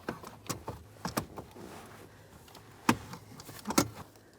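Plastic steering column cowl cover being pulled down and off, its clips snapping loose and the plastic clattering in a series of irregular sharp clicks and knocks.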